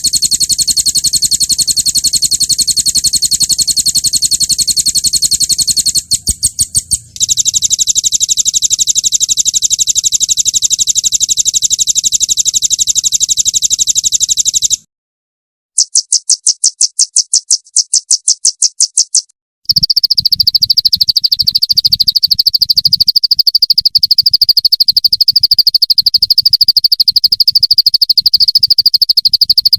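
Recorded songbird song made up of very fast, evenly repeated high-pitched notes that run together into rolling trills. The trills come as several spliced segments, each starting and stopping abruptly, with short silences between them. The last segment is a slightly lower, steady trill.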